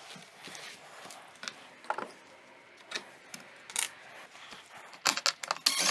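Scattered sharp metallic clicks and clinks as window hinge parts and screws are handled and fitted, turning into a quick run of clicks about five seconds in.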